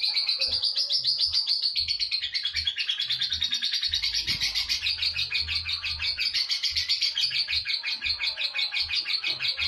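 Lovebird in long 'ngekek' song: one unbroken chattering trill of rapid, high chirps with no pause.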